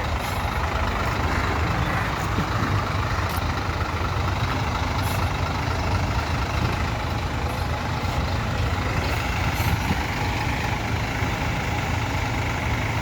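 Heavy diesel engine running steadily with a low rumble, with a few faint ticks over it.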